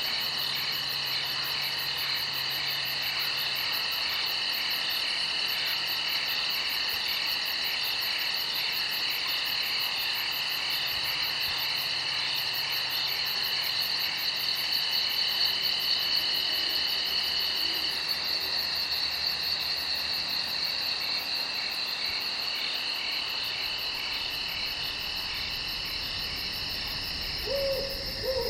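Night chorus of crickets and other insects: several steady, high-pitched trills overlapping, one a very high, fast-pulsing buzz. Near the end, a couple of short, lower calls from another animal.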